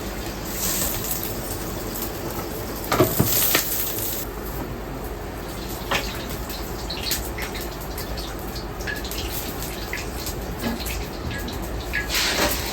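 Ramen shop kitchen at work: water running from a tap over a steady background, with scattered clinks and knocks of utensils and bowls, the loudest clatter about three seconds in.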